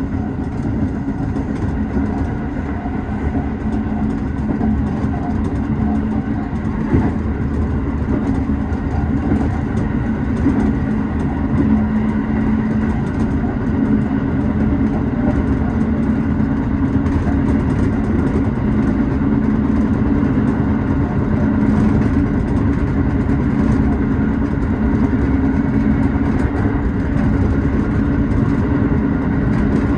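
Tobu 6050 series electric train running at speed, heard from inside the front of the train: steady running noise of the motors and wheels on the rails, with a single sharp click about seven seconds in.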